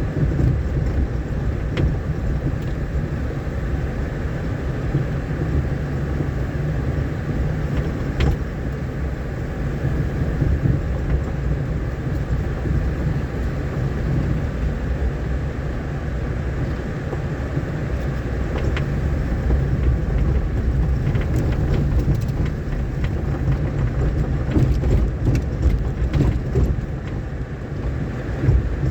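Vehicle driving over a rough, rain-damaged dirt road: a steady low rumble of engine and tyres, with scattered knocks and rattles from the bumps that come more often near the end.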